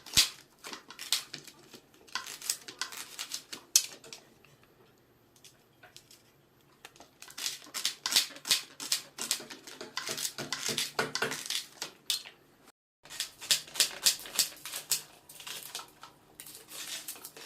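Knife chopping on a cutting board: runs of quick, sharp taps, with a quieter stretch about a third of the way in and a brief dropout near the end.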